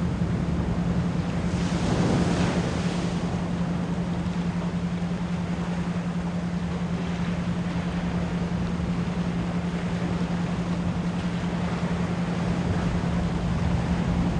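Ocean waves washing in a steady surf, with one wave surging louder about two seconds in, under a continuous 174 Hz pure tone laid on as an isochronic entrainment layer.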